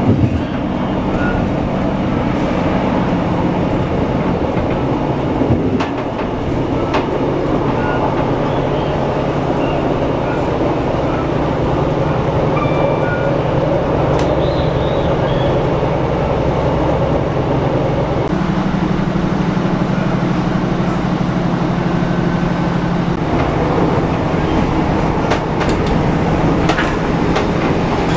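Interior running noise of a Class 156 Super Sprinter diesel multiple unit under way: a steady underfloor diesel engine drone with wheel and rail noise. The engine note steps up for about five seconds past the middle, then drops back.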